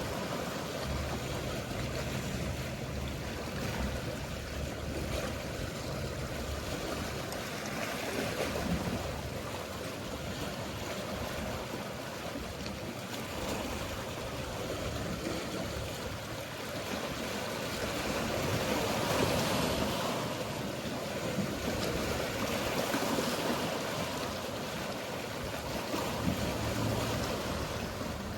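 Mediterranean sea waves washing in slow swells, with the low hum of a boat engine underneath.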